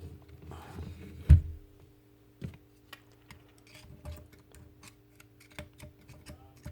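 Small metal parts of a jigsaw's blade-clamp mechanism clicking and rattling as its spring is shaken and worked by hand, with one loud knock about a second in and a lighter one a second later.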